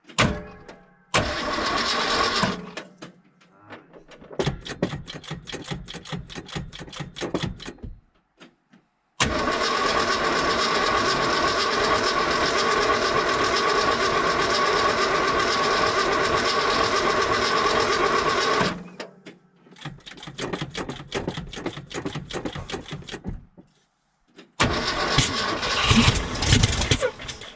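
Starter cranking the 1973 Ford F-250's 360 V8 on a cold start after two months unused, in about five tries with short pauses between them. The longest try lasts about nine seconds, near the middle. The engine is close to catching but not yet running.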